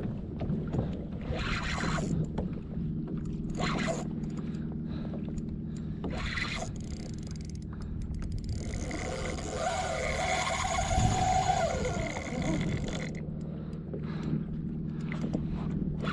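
Pedal drive of a fishing kayak churning under steady pedaling, a low mechanical drone with water sloshing in strokes every couple of seconds. About nine seconds in, a harsher rasping sound joins for around four seconds.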